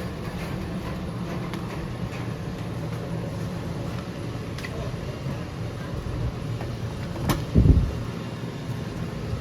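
Steady low rumble of a car driving, heard from inside, with a sharp click about seven seconds in and a heavy low thump just after it.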